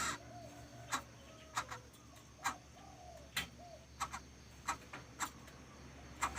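Coucal (bubut) chick calling with short, sharp clicks at irregular spacing, about two a second at most, some followed by a brief low note.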